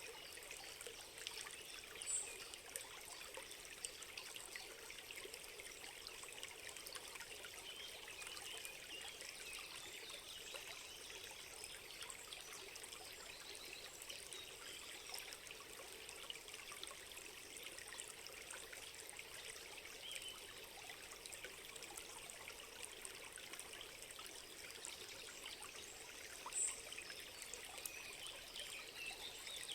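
A small stream trickling and babbling steadily. Two brief high chirps stand out, about two seconds in and near the end.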